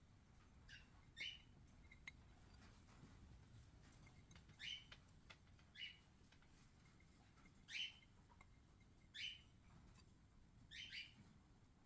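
Faint bird chirps: about seven short calls, each sliding quickly down in pitch, repeated at irregular intervals of one to three seconds.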